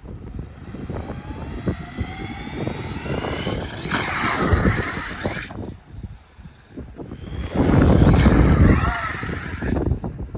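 Electric RC truck's brushless motor whining, its pitch rising as it accelerates. Two louder rushes of noise come about four seconds in and again at about seven and a half seconds.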